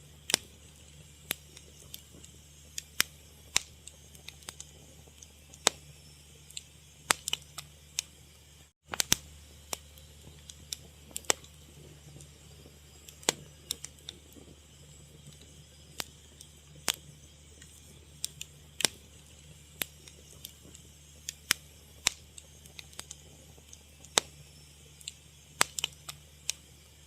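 Fire crackling: irregular sharp pops and snaps, a few louder than the rest, over a low steady hum, with a brief dropout about nine seconds in.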